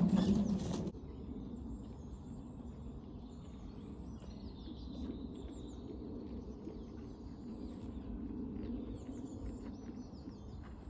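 Small birds chirping and singing over a steady low outdoor background, after a louder sound cuts off abruptly about a second in.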